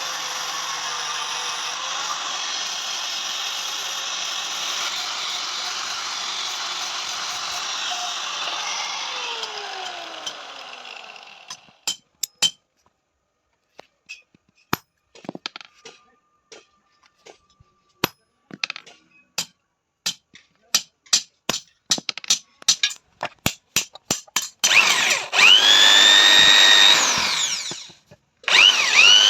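An electric power tool works on iron for about eleven seconds, then winds down with a falling tone. Sharp separate knocks follow, irregular at first and then coming faster. Near the end a power tool spins up twice with a rising whine and runs loud.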